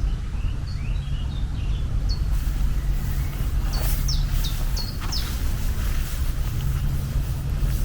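Small birds chirping in short, quick calls that slide downward in pitch, several in a cluster about four to five seconds in, over a steady low rumble.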